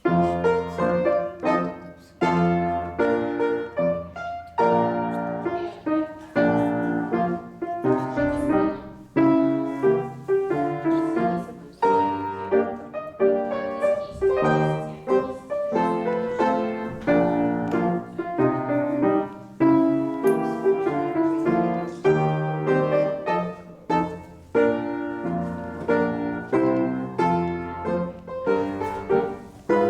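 Piano music for a ballet class exercise, starting abruptly and playing chords and melody in a steady, even metre.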